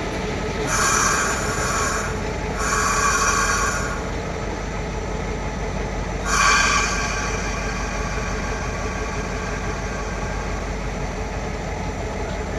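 Train running along the track with a steady rumble; three times, a high-pitched sound lasting a second or so rises above it.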